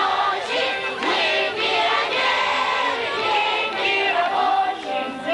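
A choir singing a song over musical accompaniment.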